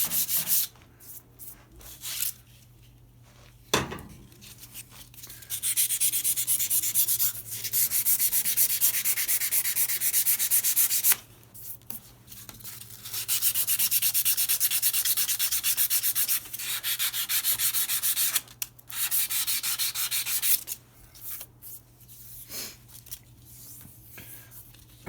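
Abrasive sanding of a brake lathe's metal mounting surface to flatten out dents and high spots. It comes in spells of a few seconds of rapid scratching hiss, with pauses between, and a single sharp knock about four seconds in over a steady low hum.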